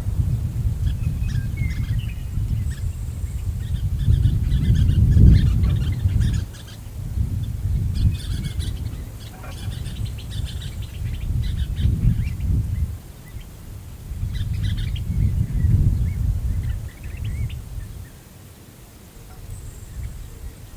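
Wind gusting over the microphone, swelling and easing in waves several seconds long, with birds chirping and calling here and there above it.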